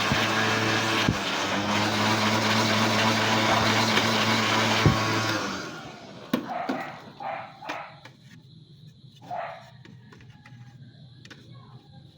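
A small electric motor-driven cleaning tool running with a loud rush of air and a steady motor hum while dust is cleaned out of a desktop computer's parts; it is switched off about five and a half seconds in and winds down. A few light clicks and knocks follow.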